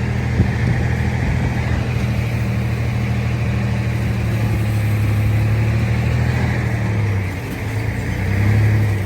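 Heavy diesel earthmoving engine running steadily, easing off about seven seconds in and picking up again briefly near the end, with a single sharp knock under a second in.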